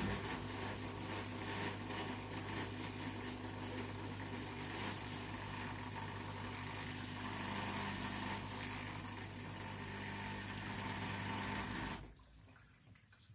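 Washing machine running during a wash: a steady motor hum with water sloshing in the turning drum, which stops suddenly near the end, leaving faint drips.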